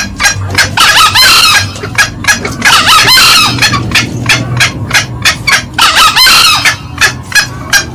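Green junglefowl calling: a cock crowing three times, a couple of seconds apart, over a hen's rapid run of short cackling notes.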